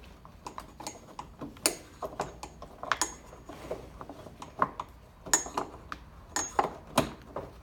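Irregular clicks and light taps of a screwdriver and plastic parts as a wiring connector is pushed through a tight gap in an ATV's frame, with a handful of sharper clicks among many faint ones.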